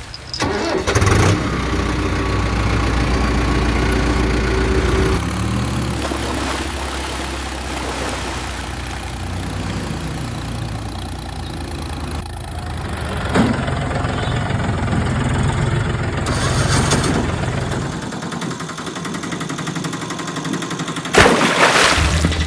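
Vehicle engine running steadily, its note changing about five seconds in, with a loud burst shortly before the end.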